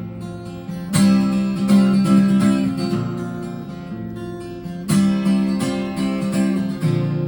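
Acoustic guitar strumming chords, with hard strokes about a second in and again near five seconds that are left to ring.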